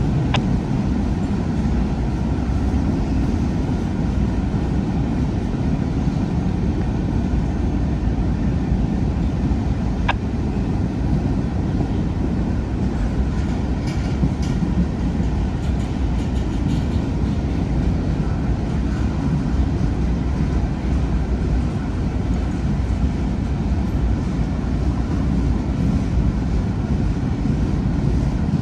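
Long freight train rolling past: a steady low rumble of wheels on the rails, with one sharp click about ten seconds in.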